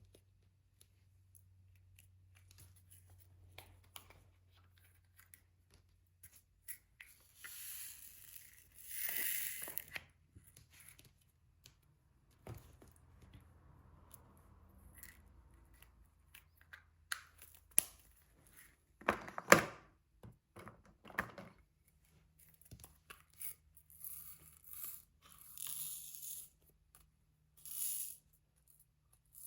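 Diamond-painting sounds: a few bursts of crinkly peeling and rustling from the canvas's plastic cover film, between light clicks and taps of the drill pen and tray. A cluster of sharp clicks about two-thirds of the way through is the loudest.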